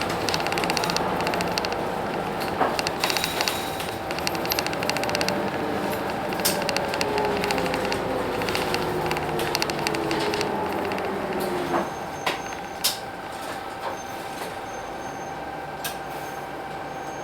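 Hino Blue Ribbon City bus with its P11C 10.5-litre engine, running on the move, with a whine falling in pitch as it slows. About twelve seconds in the whine stops and the sound drops to a quieter steady hum, broken by a few sharp clicks.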